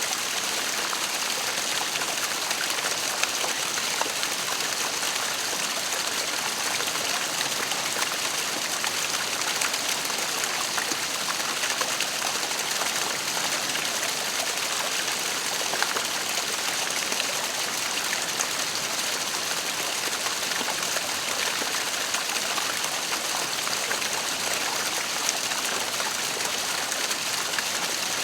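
Waterfall: falling water splashing in a steady, unbroken hiss.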